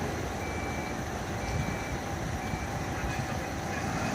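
Steady low rumble of a running vehicle engine, with a faint high beep repeating about once a second in the first half.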